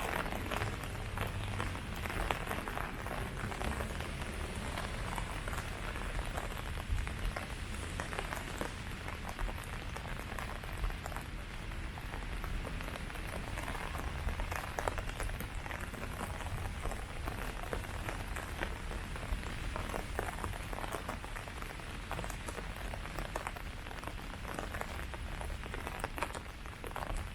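Steady rain falling on leaves, with many separate drops pattering through an even hiss.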